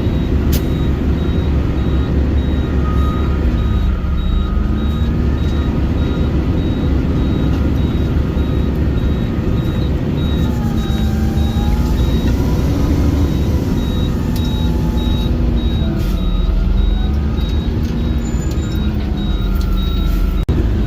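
Garbage truck engine idling with a steady low rumble while a reversing alarm beeps regularly throughout, and another machine's engine pitch slowly rises and falls.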